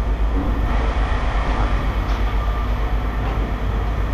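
Heavy machinery running with a steady low rumble and some faint clatter.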